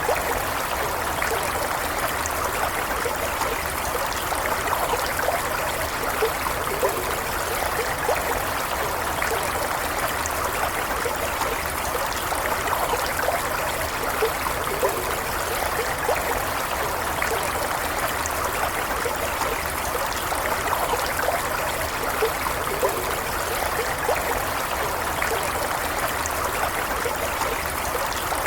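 Running water of a stream flowing steadily: an even, continuous babble with many small bubbling plinks.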